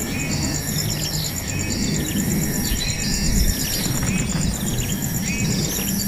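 Insects trilling with a steady, fast-pulsing high note, and short bird chirps repeating over a low rumble.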